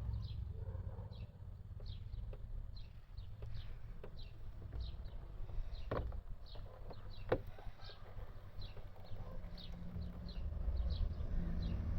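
A bird chirping over and over, short high chirps about two a second, over a low rumble. Two sharp clicks come about halfway through.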